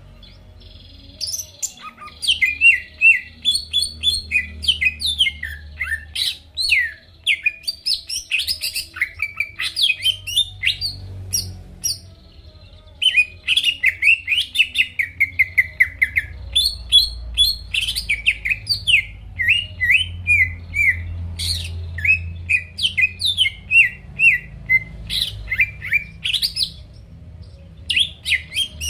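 Cucak ijo (green leafbird) in full song: a fast, varied run of chirps, whistled notes and trills, with a few short pauses.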